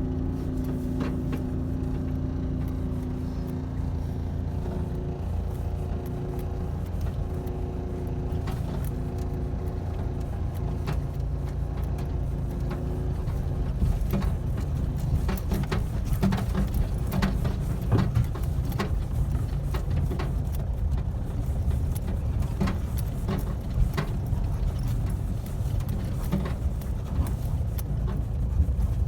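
A car running, heard from inside the vehicle: a steady engine hum over low rumble. From about halfway on there are frequent knocks and rattles.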